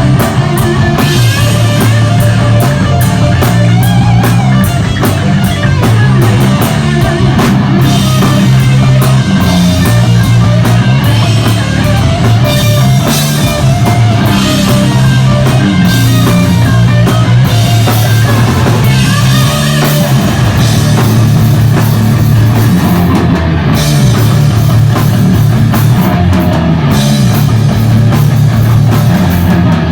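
Live heavy metal band playing, loud and continuous: distorted electric guitars, bass and a drum kit, with heavy bass notes that change every few seconds.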